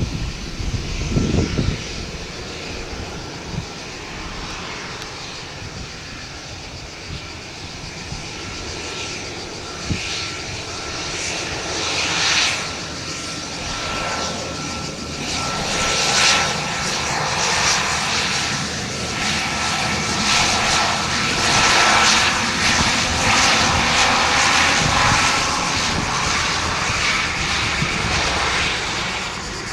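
Let L-410 Turbolet's twin turboprop engines running, with a steady high whine over the engine noise. The sound grows louder from about ten seconds in and stays loud to near the end.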